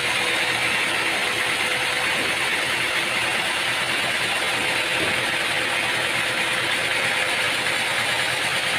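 Machinery running steadily, a continuous hissing mechanical noise with a faint hum underneath.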